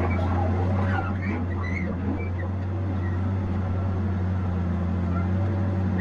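Tigercat 870C feller buncher's diesel engine running steadily, a constant low drone.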